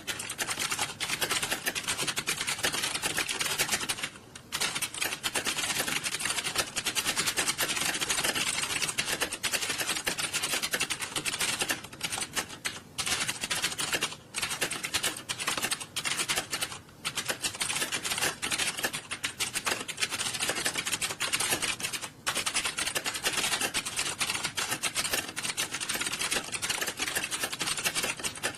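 Computer keyboards typed on fast in a typing test, a dense, continuous clatter of key clicks with a few brief lulls.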